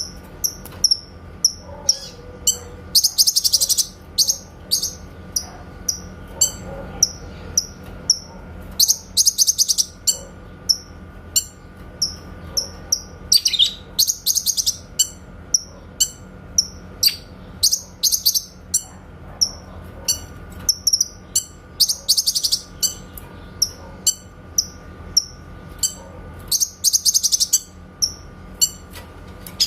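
Cucak kinoy singing: short high chirps about once or twice a second, broken every few seconds by a rapid, very high trill of about a second. These trills are the clear 'tembakan' bursts that bird-keepers play as a master song for training songbirds such as the white-rumped shama.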